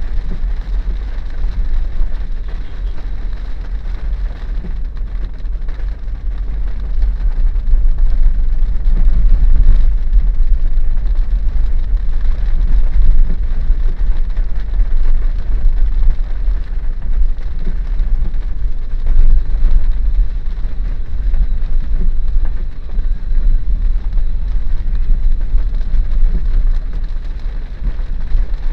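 Daihatsu Terios cabin noise while driving in rain: a steady low rumble of road and tyre noise with the hiss of rain on the car, growing louder about eight seconds in.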